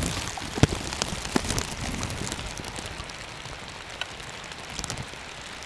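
Steady rain falling, with scattered sharp clicks, the loudest about half a second in.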